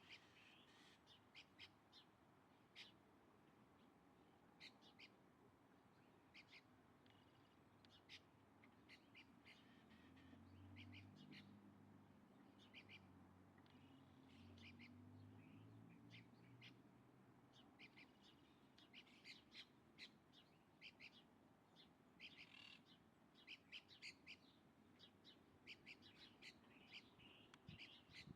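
Birds chirping and calling faintly, many short high chirps scattered throughout, coming thicker in the last third. A low hum rises and fades under them in the middle.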